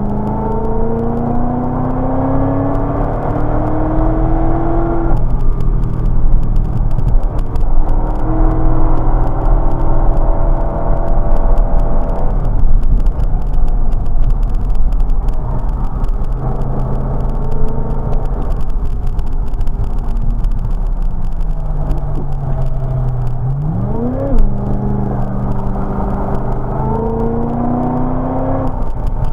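Chevrolet Corvette C6's V8 engine, heard from inside the car, pulling hard on track with its pitch climbing, then breaking off at a gear change about five seconds in. It holds steady revs through the middle, comes off the throttle with a quick sharp rev rise about 24 seconds in, and climbs again near the end.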